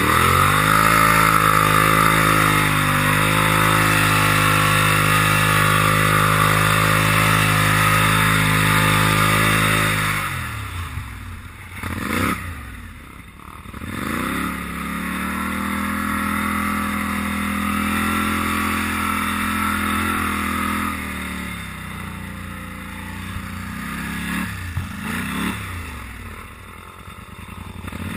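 Polaris Sportsman 850 XP ATV's twin-cylinder engine revved up and held at high revs for about ten seconds. It drops back with a couple of quick throttle blips, then holds steady at lower revs for several seconds. It falls again, with more blips and a rise near the end.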